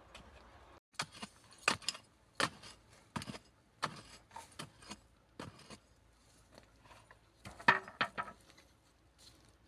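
A series of irregular sharp clicks and clinks, a dozen or so over several seconds, the loudest about eight seconds in.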